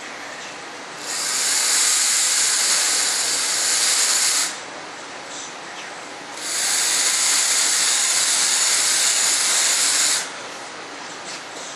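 Drill running in two long bursts of a few seconds each with a loud hiss, boring holes for alignment pins in a mold.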